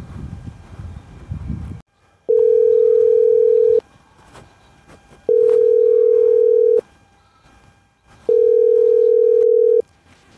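Telephone ringback tone while a call waits to be answered: a steady single-pitched beep three times, each about a second and a half long with equal gaps, starting about two seconds in. Before it there is a low rumbling background that cuts off abruptly.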